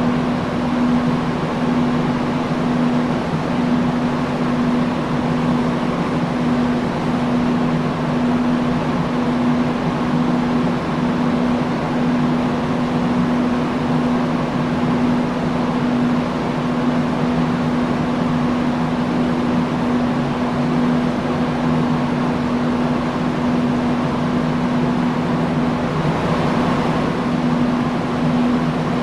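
Industrial fan running steadily: an even rush of moving air with a constant motor hum.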